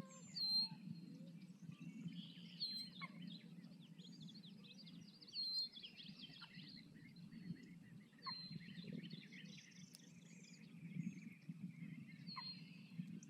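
Faint wetland birdsong: many small birds chirping, with one short high call repeated every few seconds, over a low steady rumble.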